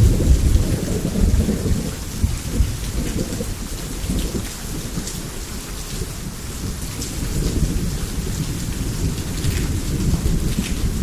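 Thunder rumbling under steady heavy rain. The rumble swells in right at the start and is loudest for the first few seconds, then rolls on more evenly beneath the hiss of rain and scattered drop taps.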